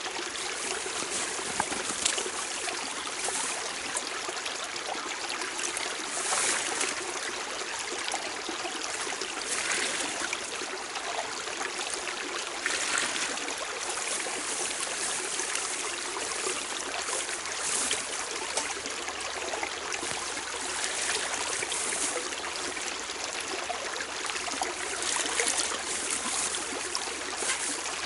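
A strongly running forest stream: steady rushing, splashing water with occasional louder surges.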